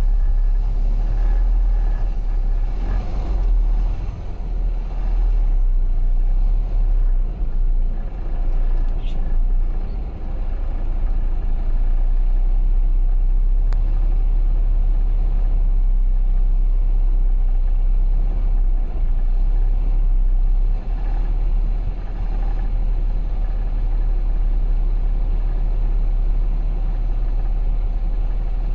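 Semi-truck diesel engine running, a steady low rumble.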